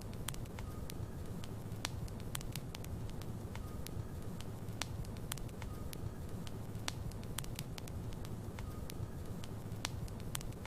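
Wood logs burning in a fireplace: a steady low rumble of flames with frequent sharp crackles and pops scattered irregularly throughout.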